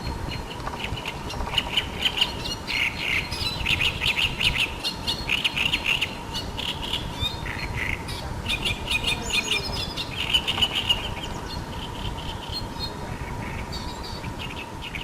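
Birds singing, with many short, rapid chirping phrases from more than one bird overlapping, thickest in the middle. A faint steady tone hums underneath.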